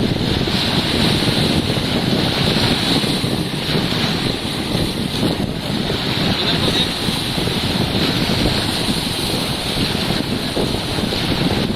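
Steady wind noise on the microphone over the wash of sea water, on a fishing boat at sea.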